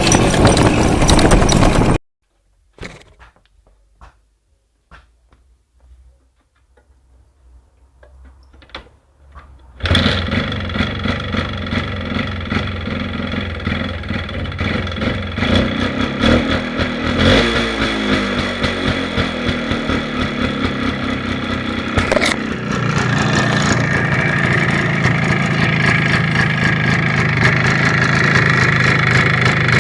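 Minsk 125 motorcycle's two-stroke single-cylinder engine. It runs, cuts out about two seconds in, and goes quiet apart from a few faint clicks. About ten seconds in it starts again and keeps running, a little louder from about two-thirds of the way through.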